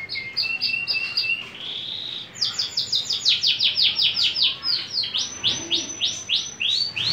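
Canary singing a song of repeated phrases: first a run of short high notes over a lower held tone, then from about two and a half seconds in a fast series of downward-sweeping whistles, about five a second, slowing to about three a second near the end.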